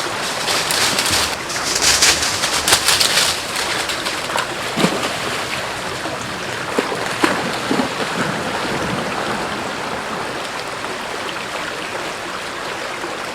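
Mountain creek running over rocks in a steady rush, with a stretch of louder splashing in the first few seconds.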